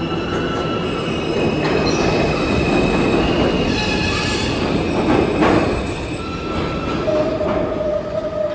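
New York City subway train running through the station, with steady rumbling and high steel-wheel squeals that shift pitch. A lower squeal starts near the end.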